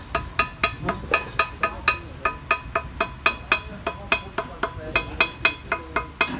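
Rapid, evenly paced light hammer taps on metal, about four a second, each with a short metallic ring: typical of cutting a new gasket by hand by tapping it out against the part's edge.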